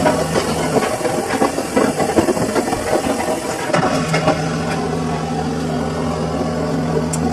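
Samsung washing machine running a load: a steady low motor hum with irregular knocks and clatter for the first few seconds, settling into a smooth hum about four seconds in.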